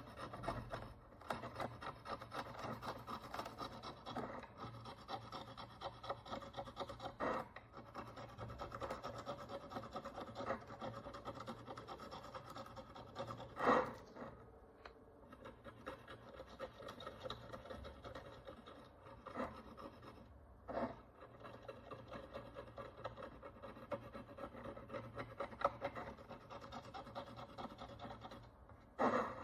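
A fine hand tool scraping encrustation off an ancient Roman bronze follis: a dense, continuous run of tiny scratching strokes, with a few louder clicks and a faint steady hum underneath.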